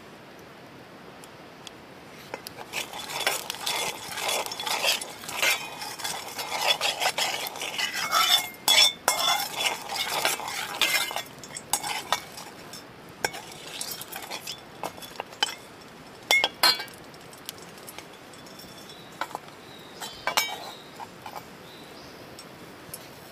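A utensil stirring and scraping in a cooking pan, with rapid clinks and knocks for several seconds, then slower, scattered clinks.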